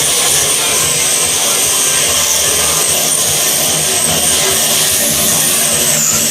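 An electric power tool running steadily: a constant rushing noise with a high whine on top that wavers slightly in pitch.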